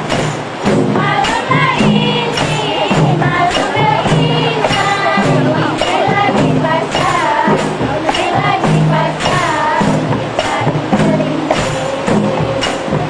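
Rebana frame drums playing a steady repeating beat under voices singing a melodic religious song.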